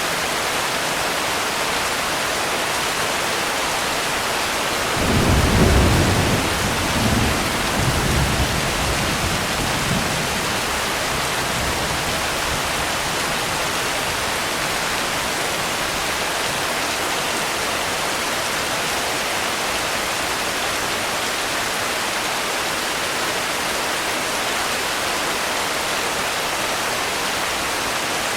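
Steady rain hissing throughout, with a roll of thunder about five seconds in: a low rumble that swells, rolls on in smaller waves for about five seconds and dies away under the rain.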